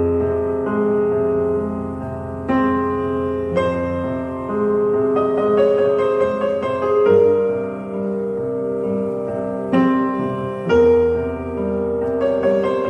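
Background piano music, slow and gentle, with sustained notes changing every second or so.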